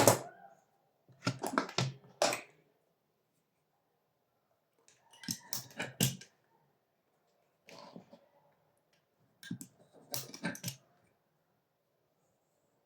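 About five short bursts of sharp clicks and taps, separated by quiet gaps.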